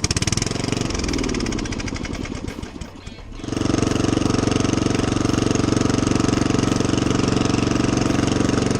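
Riding mower's 12.5 hp Briggs and Stratton engine running with no muffler, a rapid stream of open exhaust pulses. Its running weakens and drops in level over the first few seconds, then about three and a half seconds in it is suddenly louder and runs steady. Without the muffler the owner thinks it has to run on choke.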